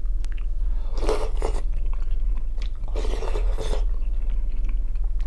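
Close-miked eating: a spoonful of chunky soup chewed in the mouth, with two louder wet mouthfuls about a second and three seconds in. A steady low hum runs underneath.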